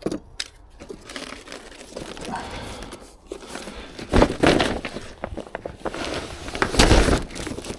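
Polythene visqueen sheet being handled and cut, with irregular crinkling and rustling that is loudest in two bursts, about halfway through and near the end.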